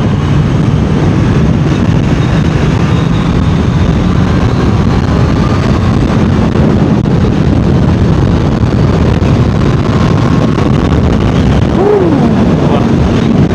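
Honda CBR650R's inline-four engine pulling hard in fourth gear at speed, mixed with heavy wind rush on the microphone. About 12 seconds in, the revs briefly rise and then drop.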